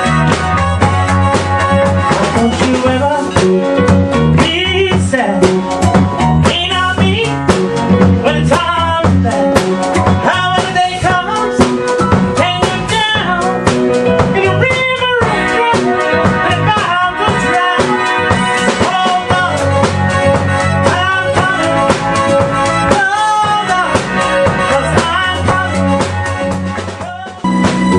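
A band playing an upbeat song: drum kit and bass keeping a steady beat, with a lead melody line over them. The music dips briefly near the end.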